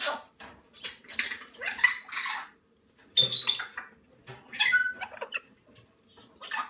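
Baby Moluccan cockatoo chicks making harsh, rasping food-begging calls in a string of short bursts while being hand-fed.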